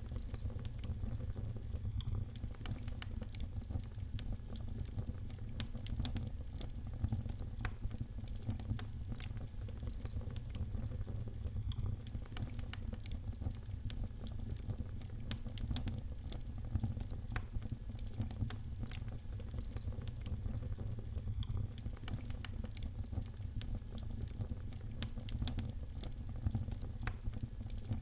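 Fireplace fire crackling, with dense, irregular small pops and snaps over a steady low rumble.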